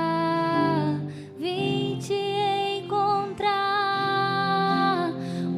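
A live worship song in Portuguese: a singer holds three long notes with vibrato, over a soft, steady instrumental accompaniment.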